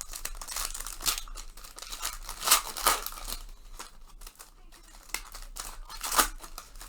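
Foil trading-card pack wrappers being torn open and crinkled in the hands, an irregular run of crackles with louder bursts around one, two and a half to three, and six seconds in.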